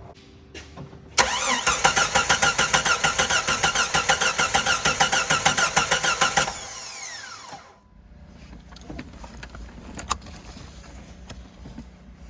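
1997 Jeep Grand Cherokee's 4.0 inline-six cranking on the starter for about five seconds without catching, a fast even chugging, then the starter whining down as it is released. The engine spins but won't start because there is no spark at the ignition coil.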